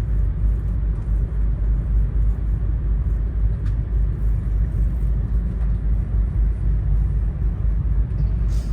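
Steady low rumble of an E2 series 1000 Shinkansen train running, heard from inside a passenger car.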